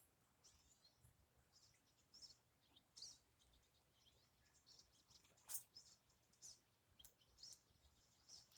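Faint, scattered chirps of small birds, with a single soft click about five and a half seconds in.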